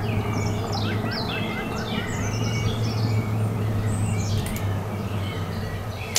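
Several songbirds chirping and singing, with a quick run of about eight repeated short notes about a second in. A steady low hum runs underneath.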